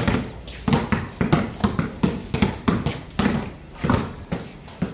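Basketballs being dribbled on a hard court, several balls bouncing in an uneven, overlapping rhythm of about two to three bounces a second.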